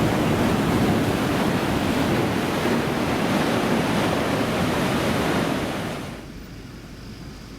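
Ocean surf, a loud steady wash with wind on the microphone, that drops sharply to a much quieter hiss about six seconds in.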